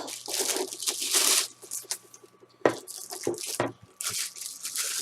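Plastic packaging crinkling and tearing in several irregular bursts, with a few sharp knocks, as statue parts are unwrapped.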